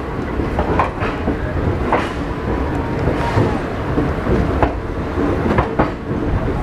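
Passenger train rolling slowly out of a station, heard from on board: a steady low rumble of the wheels with irregular clanks and knocks as they pass over rail joints and points.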